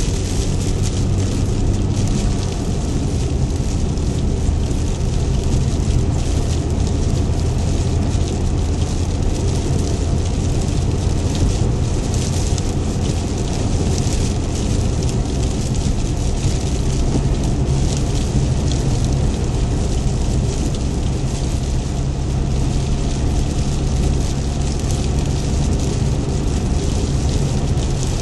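A car engine running steadily under heavy rain hissing on the vehicle. The engine's low hum steps up in pitch about halfway through.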